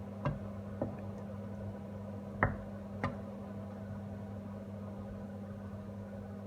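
A cooking spoon knocking against the pan while chicken is stirred in tomato sauce: four sharp knocks in the first three seconds, the third the loudest, over a steady low hum.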